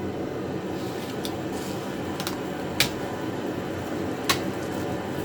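Steady fan noise of a running heater, with a few short sharp clicks on top, the two loudest near the middle and about three-quarters through.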